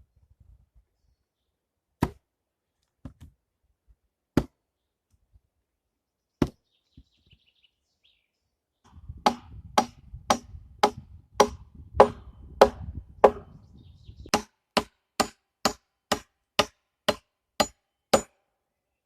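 Chopping blows on wood: a few widely spaced sharp strikes, then a quick steady run at about two strikes a second. A low rumble lies under the first half of the run.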